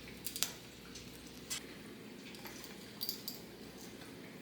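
A few faint, scattered clicks and taps: a mealy amazon parrot's beak nibbling at a piece of firewood.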